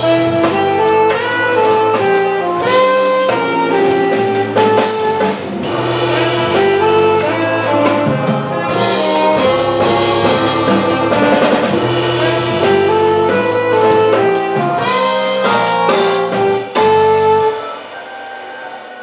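Live jazz organ trio playing: saxophone lines over organ and a swinging drum kit with cymbals. The band cuts off sharply near the end, leaving a much quieter tail.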